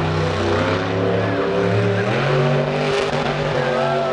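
Monster truck engine revving hard, its pitch jumping up and down in steps as the throttle is worked.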